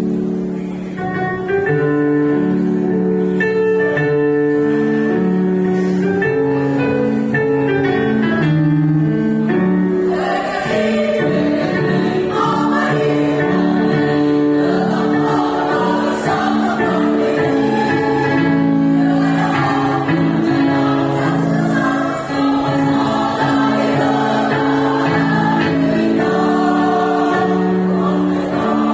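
A choir singing in several parts, the voices coming in together at once and moving through long held chords.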